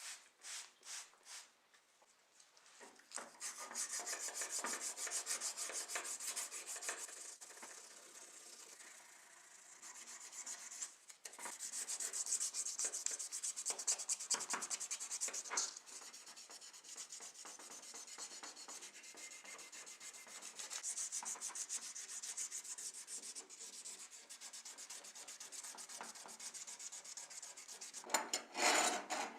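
Hand sanding: fast, scratchy rubbing strokes that come in a few louder spells with quieter rubbing between.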